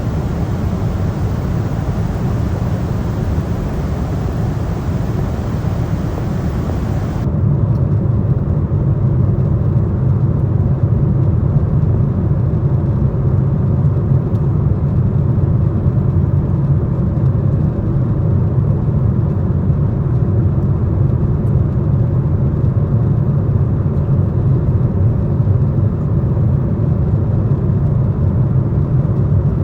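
Steady cabin noise of a Boeing 747-8 airliner, engines and airflow. About seven seconds in, the sound changes abruptly: the high hiss drops away and a deeper rumble remains.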